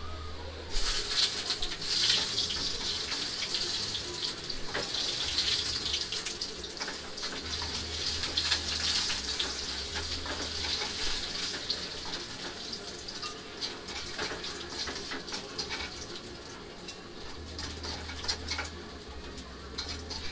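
Potato chips frying in hot oil in a pan: a steady sizzle full of small crackles. It starts abruptly about a second in and slowly gets quieter.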